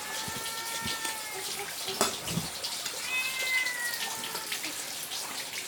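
A cat meowing twice: two long, slightly falling meows, one at the start and one about three seconds in. A sharp knock comes at the start and another about two seconds in.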